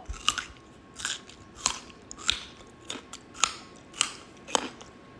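Crunchy chewing of raw salad vegetables: about eight crisp crunches at an even pace, a little over half a second apart.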